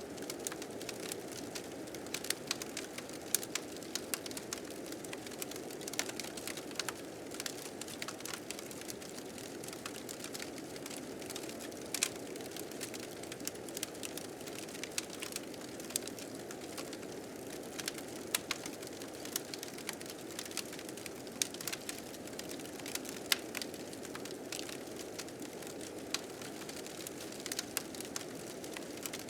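Fire crackling, with frequent irregular sharp pops, over a steady blizzard wind.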